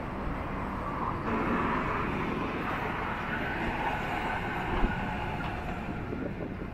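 A vehicle passing close by: a steady noise that grows louder about a second in and eases off near the end, with a single short knock partway through.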